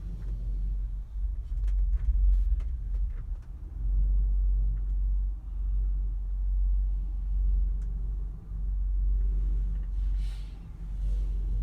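Wind buffeting, a low rumble that swells and eases in gusts, with a few light clicks in the first few seconds.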